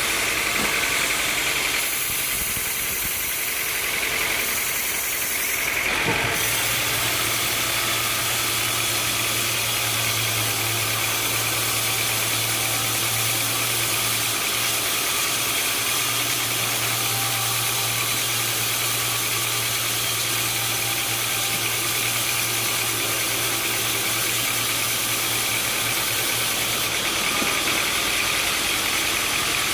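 Sawmill machinery running with a steady mechanical noise. A low hum sets in about six seconds in and stops near the end.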